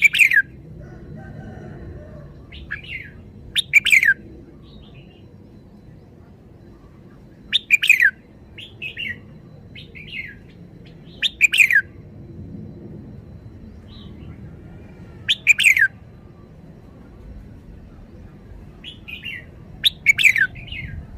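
Red-whiskered bulbul singing: six short, loud phrases spaced about four seconds apart, each sliding down in pitch, with softer chirps between them.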